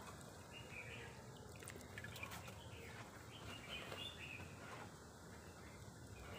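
Faint bird chirping over low, steady outdoor background noise.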